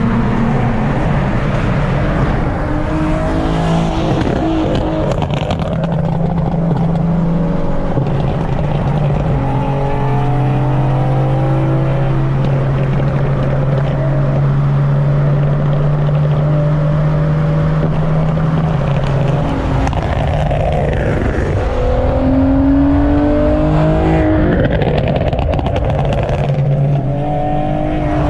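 Nissan 370Z Nismo's V6 engine driving under load. Its note rises in pitch several times as it pulls through the gears, with a steady drone between the pulls.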